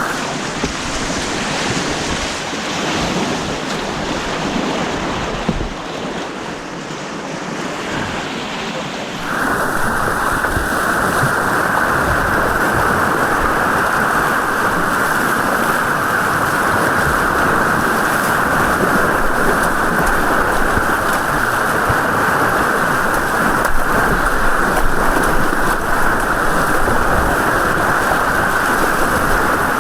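Rushing white water of a man-made rapids course, heard close up as a steady noise. About nine seconds in it turns louder and duller.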